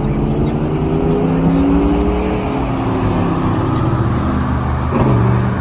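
Car engine running under load, its pitch climbing slowly, then dropping sharply about five seconds in and rising again.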